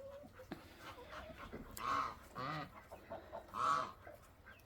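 Domestic geese honking, a few short calls about a second apart.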